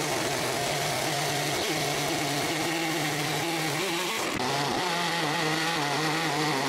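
Gas engine of a small sawmill running steadily under load as the saw cuts a plank from a log, its pitch dipping briefly about four seconds in.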